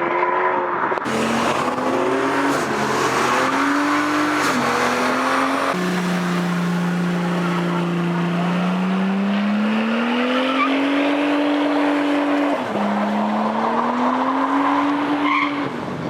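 A car spinning its wheels in a long burnout, the tyres screeching steadily while the engine is held at high revs, its pitch rising and dropping back several times.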